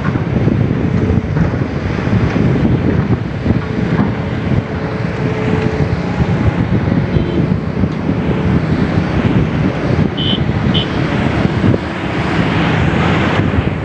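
Wind buffeting the microphone, a loud, steady low rumble, with two short high blips near the end.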